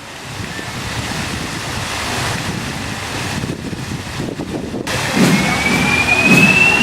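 Fountain water rushing, with wind buffeting the microphone. About five seconds in the sound cuts abruptly to a thin, slowly rising whistle-like tone over a low pulse about once a second.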